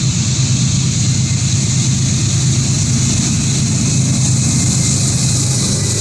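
Norfolk Southern intermodal freight train passing, a steady low rumble with a high hiss over it.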